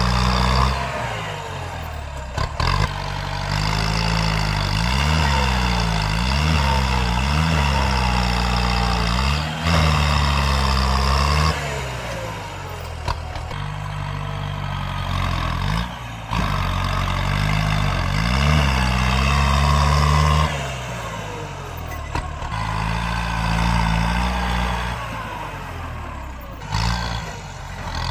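Tractor engine working under load, its revs rising and falling again and again, with loud stretches broken by brief dips.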